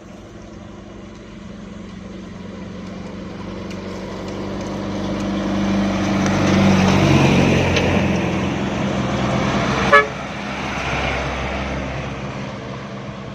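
Engine of a small truck loaded with sand and gravel, running under load: it grows steadily louder to a peak about seven seconds in, then eases off. A brief horn toot sounds about ten seconds in.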